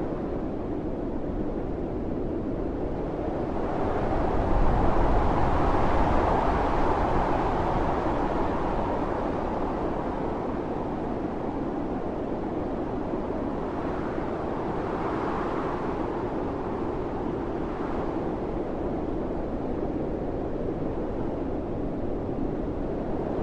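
Strong blizzard wind rushing steadily with a deep rumble, rising in a gust about four seconds in that eases off slowly, with a smaller swell in the middle.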